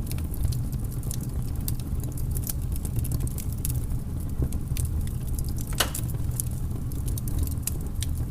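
Crackling fire: a steady low rumble with scattered sharp pops and snaps, one louder snap about halfway through.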